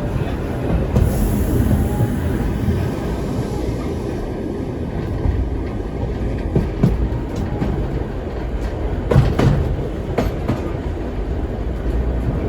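Vintage steam-tram carriages rolling along the track: a steady low rumble, with a few sharp clacks of the wheels over rail joints, the loudest about nine seconds in.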